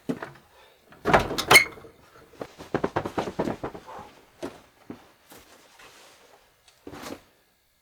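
A run of sharp knocks and clatters, hard objects being handled. The loudest cluster comes about a second in, more follow a second or two later, and there is a last knock near the end.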